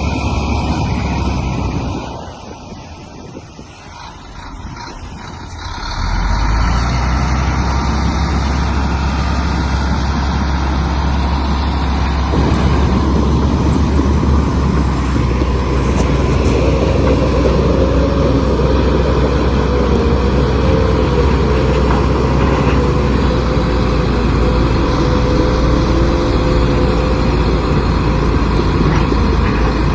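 Heavy diesel engine of large construction machinery running, going quieter for about four seconds near the start, then loud and steady again.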